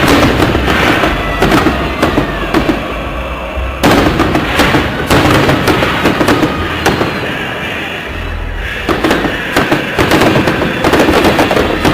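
Festive fireworks salute going off: repeated bangs with crackling, a loud burst about four seconds in, and a dense run of bangs again after about nine seconds.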